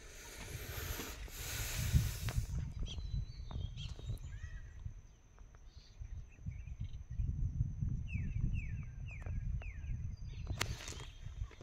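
Outdoor ambience with an uneven low rumble and a hiss in the first couple of seconds. A bird calls a run of short falling chirps in the second half and again near the end, over a faint steady high whine.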